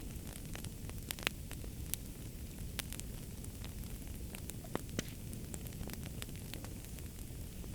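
Wood fire crackling in a fireplace: irregular sharp pops and snaps, a few louder ones about a second and a quarter in and near five seconds, over a steady low rumble of the flames.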